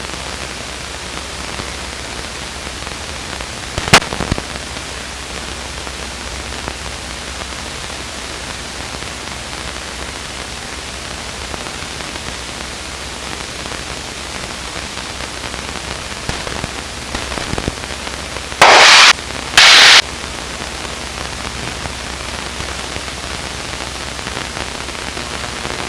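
Steady static hiss with a low hum from the light aircraft's radio and intercom audio. A sharp crack comes about four seconds in, and two short, loud bursts of static come a little past the middle.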